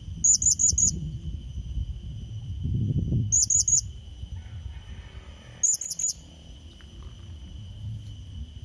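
Blue-crowned hanging parrot (serindit) calling: three short bursts of three or four quick, high-pitched notes, a few seconds apart. It is a lure call meant to draw in a rival bird.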